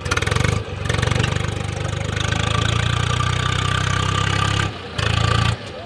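Tractor diesel engine revving hard under load, easing off briefly twice and dropping back near the end.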